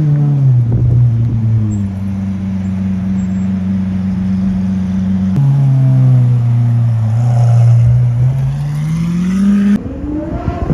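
Lamborghini Aventador SVJ's V12 through an aftermarket Gintani exhaust, very loud. It holds steady revs, drops suddenly in pitch about halfway, then climbs steadily before breaking off near the end.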